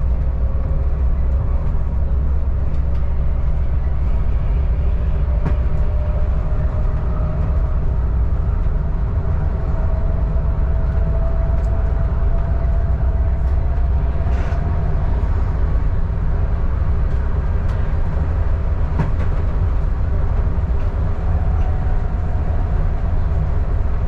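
Adelaide Metro diesel suburban train running along the Belair line: a steady low rumble of engine and wheels on the track. A faint tone rises slowly in pitch through the middle, and there are a few light clicks from the wheels and car.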